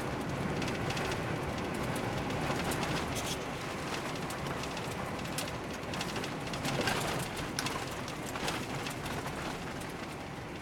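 Car being driven on a snowy road, heard from inside the cabin: steady road and tyre noise with a scatter of small clicks and crackles.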